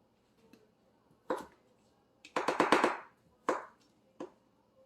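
Knife cutting canary melon on a cutting board. Single knocks are broken by a quick run of about eight strokes a little past the middle.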